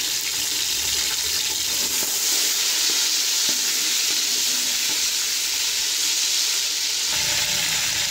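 Sliced onions and freshly added ginger-garlic paste sizzling steadily in hot oil in a steel pot.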